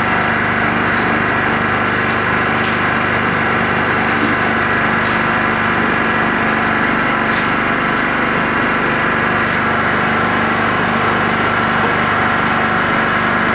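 Portable generator engine running steadily, powering a Skif BSM 200 concrete mixer whose drum turns with dry sand in it.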